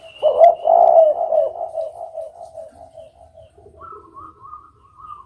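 Spotted dove (derkuku) cooing: a loud call just after the start trails off in a quick string of fading notes, followed near the end by a fainter, higher-pitched run of notes.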